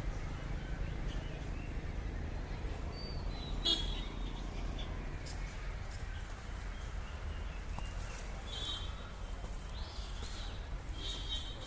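Scattered short bird chirps over a steady low rumble, with a single sharp click about four seconds in.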